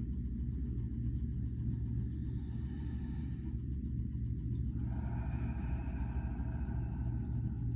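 A steady low drone, with two soft held tones over it: a faint one about two seconds in and a fuller, longer one about five seconds in.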